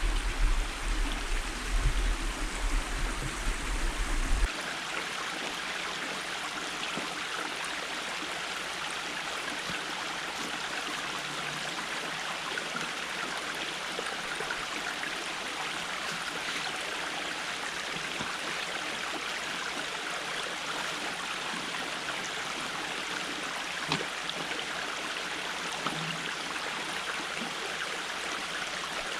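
Creek water running steadily over stones. A low rumble under it in the first few seconds stops abruptly about four seconds in.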